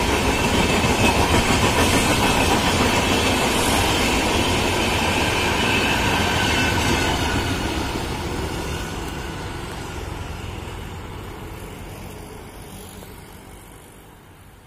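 Passenger train of LHB coaches rolling past on the rails, a steady rumble of wheels on track. After about seven seconds it fades away gradually as the last coach, the end power car, recedes.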